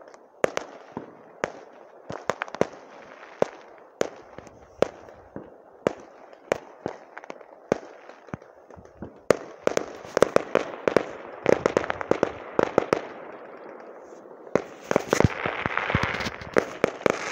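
Fireworks going off: a scatter of sharp bangs and pops, thickening into rapid crackling runs about ten seconds in and again near the end.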